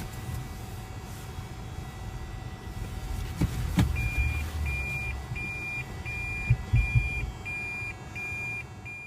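A car's in-cabin warning chime beeps evenly, about one and a half beeps a second. It starts after two sharp clicks about three and a half seconds in, over the low rumble of the car.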